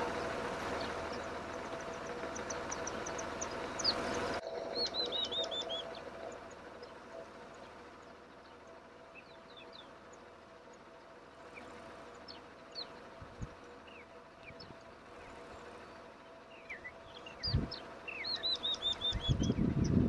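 Small wild birds chirping, with quick runs of repeated chirps about five seconds in and again near the end. A steady hum sits under the first four seconds and stops abruptly, and a few low thumps come near the end.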